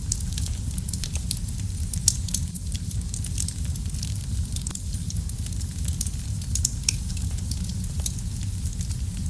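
Wood fire burning in a fireplace: a steady low rumble of the flames with constant fine crackling and occasional sharper pops.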